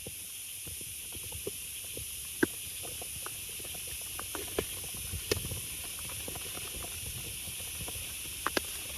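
Heavy rain falling as a steady hiss, with scattered sharp taps of drops or small knocks, a few louder ones standing out.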